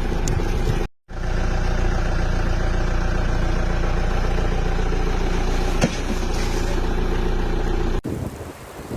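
A motor vehicle's engine running steadily at idle, with a short break about a second in. It cuts off abruptly near the end and gives way to a rushing, wind-like noise.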